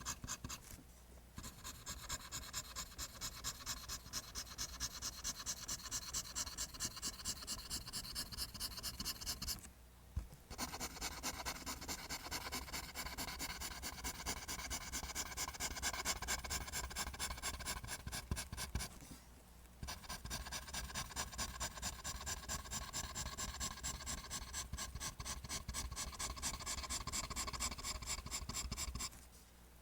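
Pencil drawing lines on paper: a rapid, even run of short scratching strokes, broken by three brief pauses of about a second each as the pencil lifts.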